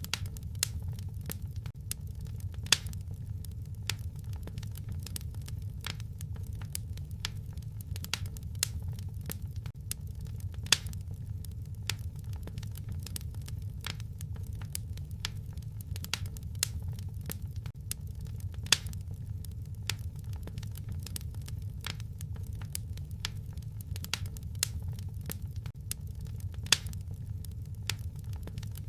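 Wood fire crackling in a fireplace: a constant scatter of small sharp pops and snaps over a steady low rumble, with a few louder pops about eight seconds apart.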